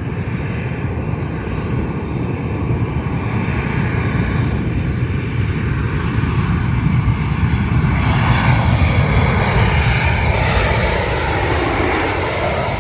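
Jet airliner passing low overhead: its engine roar builds to a peak while a whine falls steeply in pitch as it goes by, then begins to fade at the end.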